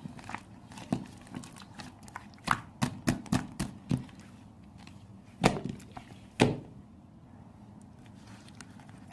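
Slime being squeezed and pressed by hand, giving irregular sticky clicks and pops, with two louder pops about five and a half and six and a half seconds in.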